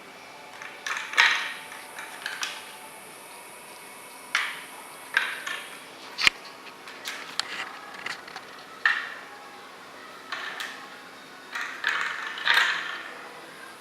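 A cat batting at a mouse-trap toy with a mouse that spins inside it: irregular knocks and short rattles, a dozen or so, with the loudest cluster near the end.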